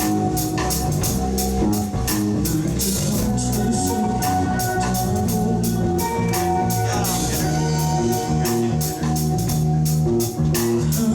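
Live rock band playing: a drum kit keeping a steady, busy beat under electric guitars and bass guitar.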